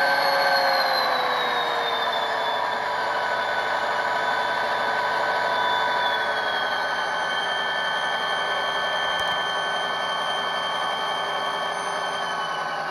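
LokSound decoder playing a diesel locomotive engine sound through the small speakers of HO scale Kato SD40-2 models. The engine drone steps down in pitch twice as the throttle is notched down from full.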